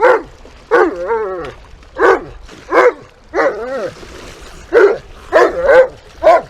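A dog barking in short, high yelps and whines, about eight of them, each bending up and down in pitch.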